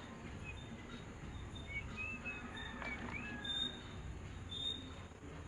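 Birds chirping faintly, a few short high chirps and squeaks over a low, steady background rumble.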